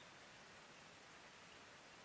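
Near silence: faint, even outdoor background hiss.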